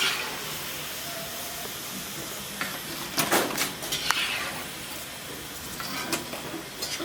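Cassava pieces deep-frying in hot oil, a steady sizzle with a few sharp clicks and knocks through it.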